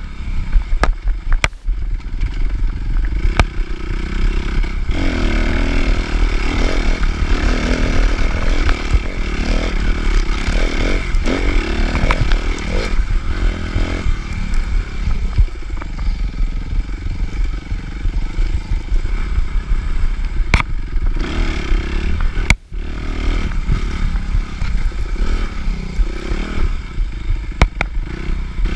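Suzuki RM-Z250 dirt bike's single-cylinder four-stroke engine under hard riding, revving up and down through the gears, with scattered sharp knocks and clatter.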